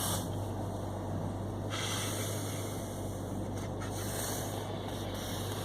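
Car running along a snowy road, heard from inside the cabin: a steady low engine hum under road and tyre noise, with a brighter hiss joining a little under two seconds in.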